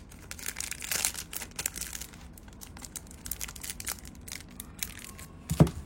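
Crinkling and rustling of packaging with many small clicks as a Zippo lighter is handled, and one sharper knock near the end.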